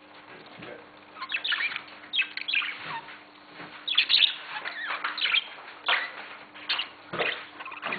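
Small birds chirping: quick, high chirps, many sliding downward, coming in irregular clusters one after another.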